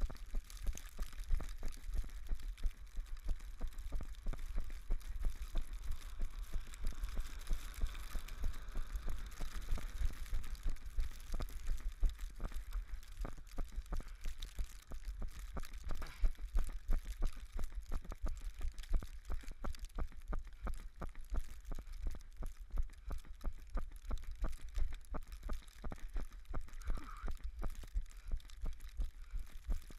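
Running footsteps on snow: a quick, even patter of thumps, over a steady hiss of wind and snow on the microphone.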